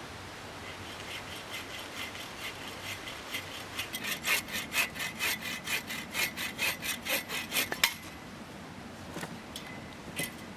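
Hand saw cutting through wood in quick, even strokes, about four a second. The strokes are light at first, grow much louder about four seconds in, and stop around eight seconds, followed by a few scattered knocks.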